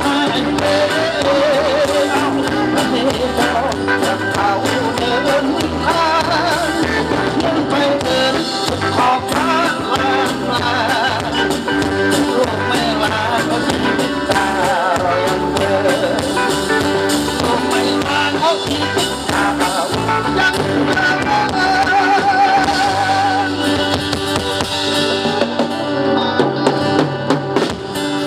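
Live band playing a Thai song, with a wavering melody line over steady bass and drums.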